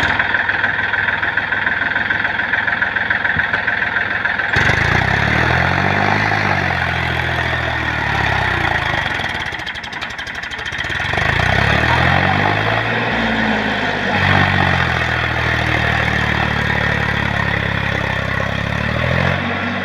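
Tractor engine running, its pitch rising and falling several times as it is revved and eased off.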